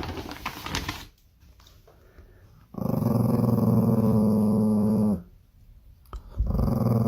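A pet growling: two long, steady, low growls, the first starting about three seconds in and the second about a second after it stops.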